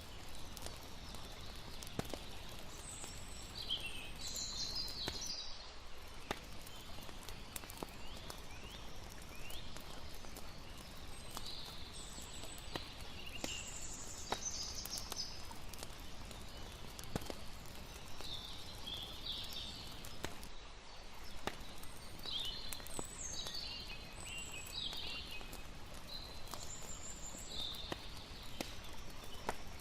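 Layered night-time campfire ambience: a wood fire crackling with frequent sharp pops, over a steady wash of water. Short clusters of high chirping calls come every few seconds.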